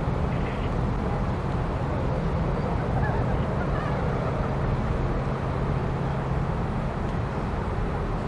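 Steady low engine rumble with a constant hum, with a few faint short high calls or honks at the start and about three seconds in.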